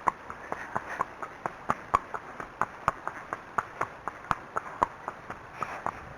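An Arabian horse's hooves clip-clopping on a hard surface, a steady run of about four even hoofbeats a second.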